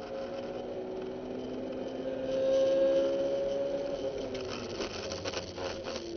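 Honda S2000's four-cylinder engine, heard from inside the cabin, pulling hard under full throttle, its note rising slowly and loudest around the middle. A little past halfway the throttle closes under hard braking, the engine note falls away, and a clatter of short knocks follows.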